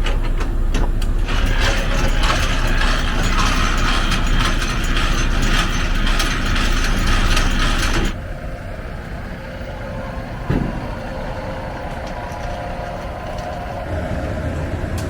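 Semi-trailer landing gear being cranked up by hand: a steady run of gear clicking and rattling that stops suddenly about eight seconds in. A single knock follows a couple of seconds later.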